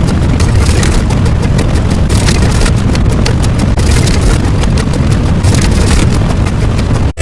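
A loud, dense wall of noise with a strong deep rumble and a crackling hiss above it, built from layered sound effects. It cuts out for an instant near the end.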